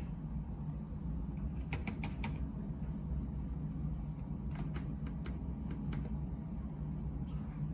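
Miele W Classic washing machine running with a steady low hum, broken by a quick run of four sharp clicks about two seconds in and five more around five seconds in.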